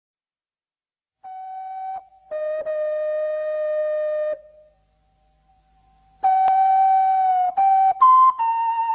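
A series of long held single tones, each steady in pitch, stepping between a few notes. The first begins about a second in, there is a near-silent lull around the middle, and louder, slightly higher notes follow in quicker succession near the end.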